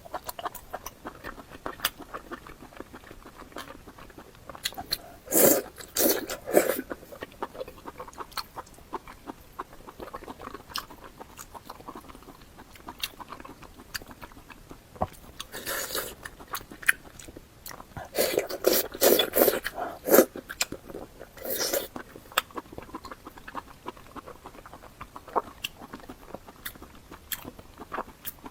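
Close-miked chewing and biting: a steady run of small wet mouth clicks, with several louder bites in clusters about five, sixteen, nineteen and twenty-two seconds in.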